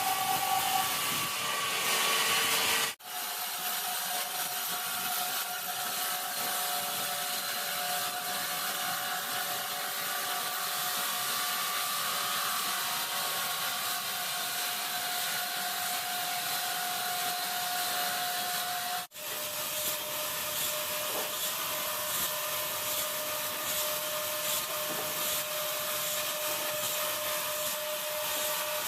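Large sawmill saw cutting through wood: a steady hiss of the blade in the timber with a faint steady whine, broken by two abrupt dropouts, about three seconds in and again near the middle.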